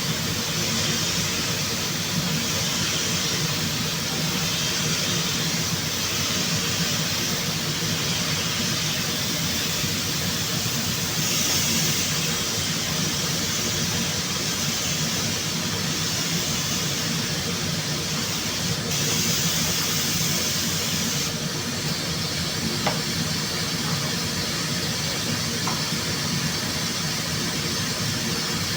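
Steady hiss of rushing air over a low, even machine hum, the hiss swelling for a second or two a couple of times.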